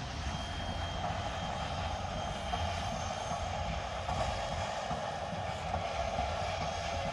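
Steady low rumble with a constant hiss and no distinct exhaust beats, typical of a train rolling steadily past.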